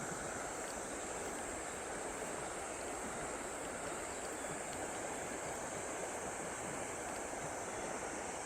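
Steady rush of flowing river water, the river running high after rain.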